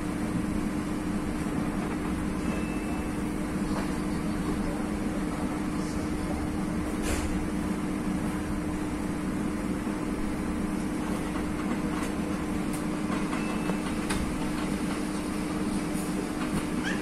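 Passenger train running at a steady pace: an even rumble of wheels on rail under a steady low hum, with a few faint clicks.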